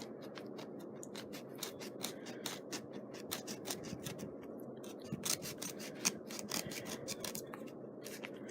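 X-Acto craft knife sawing back and forth through burlap stiffened with hot glue: an irregular run of small crisp clicks and scratches, several a second.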